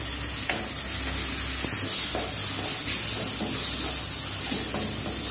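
Onion, tomato and coconut masala sizzling in a clay pot while a spatula stirs and scrapes it: a steady frying hiss with faint scrapes.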